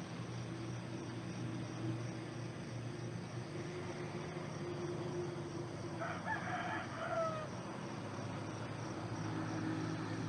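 A rooster crowing once, at a distance, about six seconds in, the call ending on a falling note, over a steady low hum.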